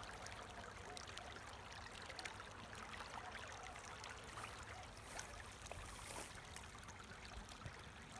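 Shallow stream of water flowing and trickling steadily.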